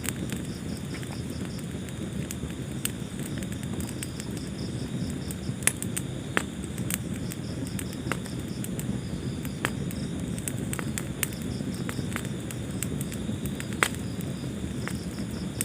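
Wood fire burning in a fireplace: a steady low rush of flames with sharp crackles and pops throughout, and a few louder snaps about six seconds in and near the end.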